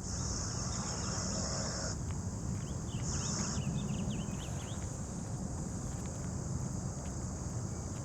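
Steady high buzz of an insect chorus, swelling for the first two seconds and again briefly about three seconds in, over a low steady rumble. A run of short chirps comes between about three and four seconds in.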